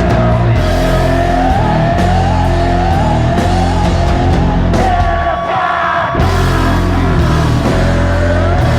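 Rock song with a sung lead vocal over guitar, bass and drums; the bass drops out for about a second around five and a half seconds in.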